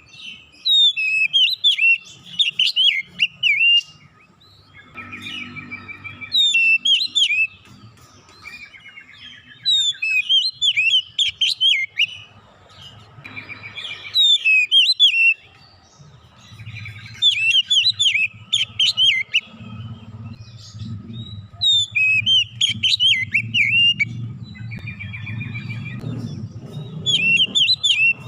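Oriental magpie-robin (kacer) singing in rapid bursts of sweeping whistled and chattering notes. Each burst lasts a second or two and they repeat with short pauses. A low hum rises underneath in the second half.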